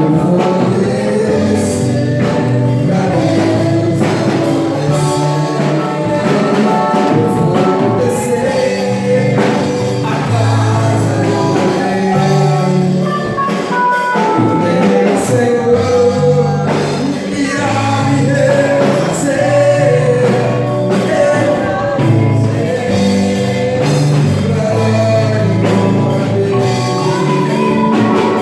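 Gospel worship music: singing over a band, with held bass notes changing every second or two.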